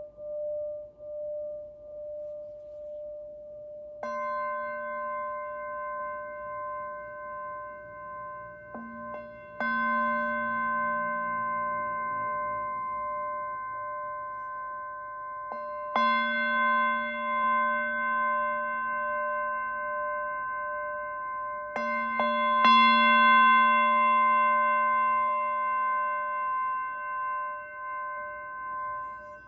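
Singing bowls struck one after another, about five strikes, each ringing on with long, slowly fading tones. The notes overlap, with a lower tone wavering throughout and the later strikes layering higher tones on top.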